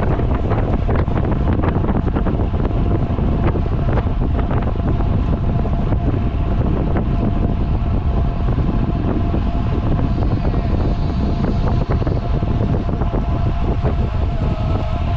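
Wind buffeting the microphone of a camera on a road bike moving at speed: a steady, loud rushing noise with small crackles and a faint steady tone under it.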